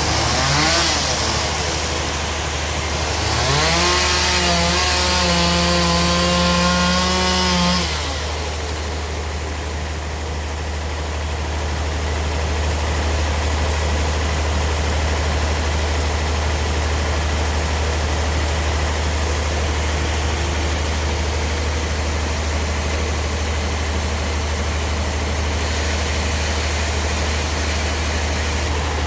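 A chainsaw revs up, briefly at the start, then again from about three seconds in, held high for about four seconds before dropping off. Under it a heavy engine idles steadily throughout.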